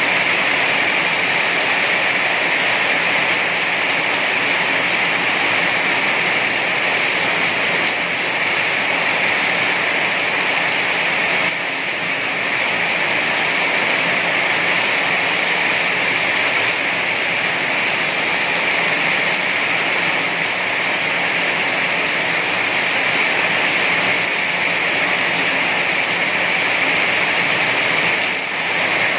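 Heavy rain falling in a steady, dense hiss, with brief slight dips in loudness about twelve seconds in and near the end.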